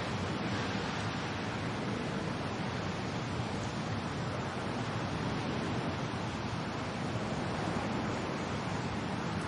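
Steady rain and wind: an even, unbroken rush with no distinct drops, gusts or thunder.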